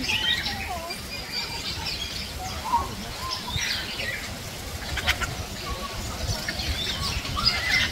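Many birds chirping and whistling at once, short chirps overlapping with a few sliding whistled notes, over a low steady rumble.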